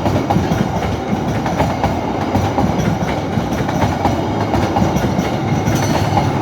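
A train passing close by: a steady rumble of the wheels on the rails, with many quick clicks and clacks running through it.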